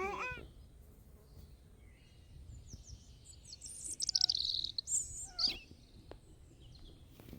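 Small birds chirping and singing in quick high trills, loudest about four to five seconds in, with one short pitched animal call at the very start.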